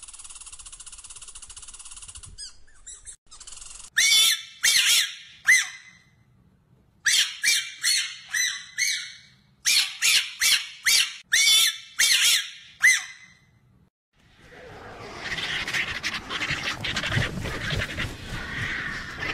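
A squirrel's steady call ends about two seconds in. Then a fennec fox gives sharp, high yelps in three quick bouts, and after a short pause griffon vultures give harsh, hissing calls.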